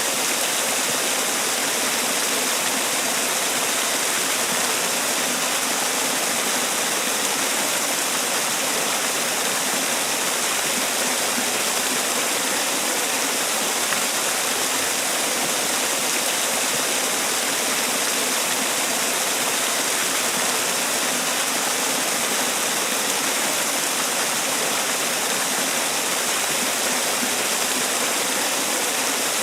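Man-made waterfall: water pouring and splashing in a steady, unbroken rush, with most of its energy in the hiss.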